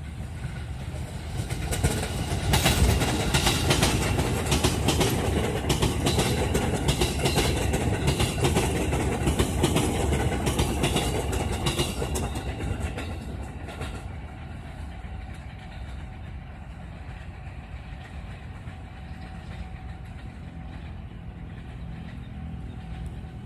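KRL electric commuter train passing close by, its wheels clattering over the rail joints with a heavy rumble, then fading as it runs off into the distance.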